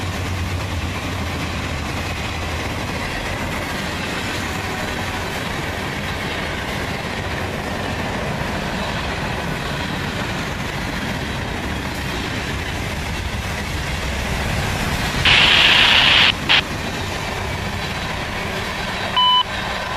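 A CSX freight train's cars rolling past: a steady rumble and clatter of steel wheels on the rails. About three-quarters of the way through, a loud hiss cuts in for about a second, and a short beep sounds near the end.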